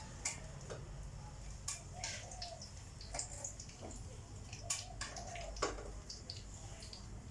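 A kitten's claws catching and scratching on a cat condo as it climbs: scattered light clicks and scratches over a low steady hum.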